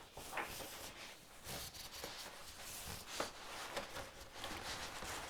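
Faint rustling with scattered light ticks and taps as thin wood veneer sheets are handled.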